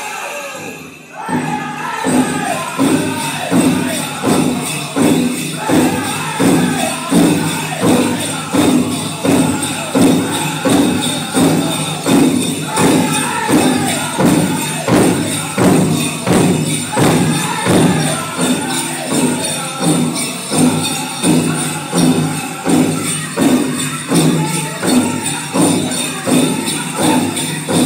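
Powwow drum group singing a chicken dance song over a big drum beaten steadily, about one beat every three-quarters of a second, with bells jingling. The sound dips briefly about a second in, then the song carries on.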